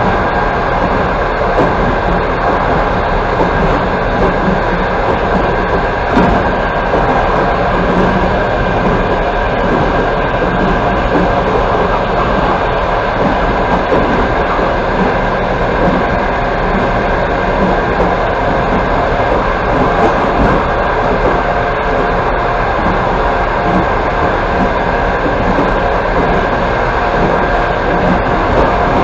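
Steady running noise of a passenger train at speed, heard from inside the carriage: wheels on rails making a continuous rumble with no clear clickety-clack rhythm.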